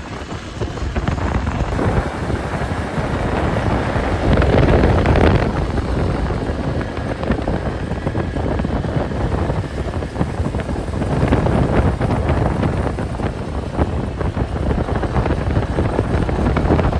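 Wind rushing over the microphone during a fast ride down a cable line, with a steady low rumble that swells a few seconds in and again past the middle.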